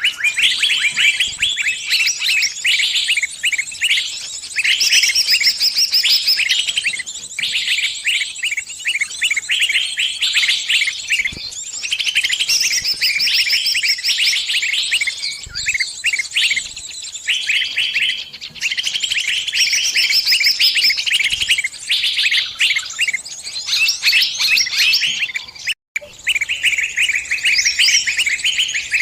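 Small bird giving rapid, high chirps and trills almost without pause: the distress calls of a trapped bird calling for help.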